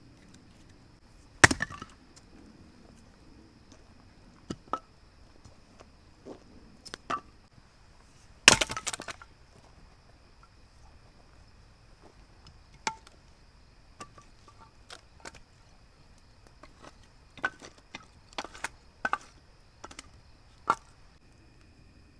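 Scattered sharp wooden knocks and clicks, with two much louder cracks about a second and a half in and about eight and a half seconds in, over a faint steady high-pitched whine.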